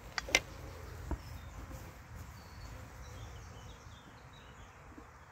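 Honeybees humming around an opened hive, disturbed by the handling. There are two sharp clicks within the first half second and another about a second in, from the hive frames being handled, and faint small-bird chirps in the middle.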